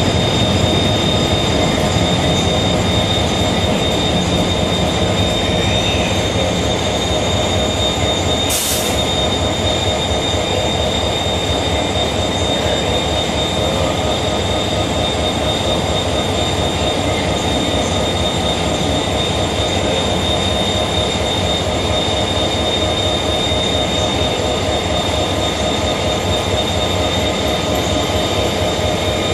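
Saemaeul passenger train carriages rolling past the platform: loud, steady wheel-on-rail running noise with a steady high tone over it, and one sharp click about nine seconds in.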